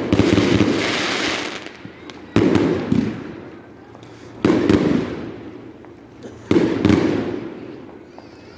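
Aerial firework shells bursting at a display: a sharp loud bang about every two seconds, three in all, each dying away over a second or so.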